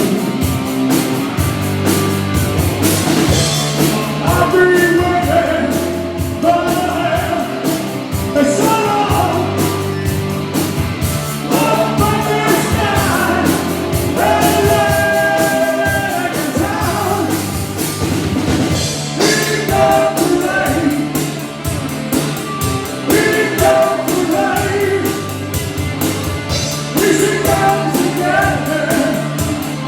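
Rock band playing live: a sung lead vocal over bass, guitar and a steady drum beat.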